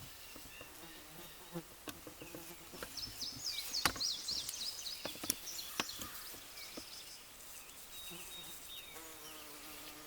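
Bumblebee buzzing as it flies among comfrey flowers, a low hum that comes and goes and is loudest near the end. Short high chirps and a few sharp clicks come in the middle.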